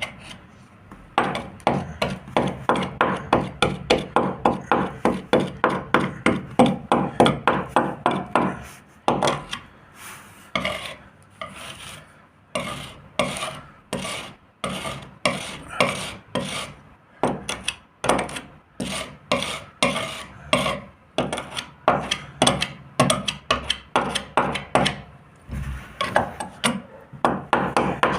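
Hand sanding or rubbing of a boat hull: even back-and-forth strokes, fast for the first nine seconds or so, then slower and more spaced.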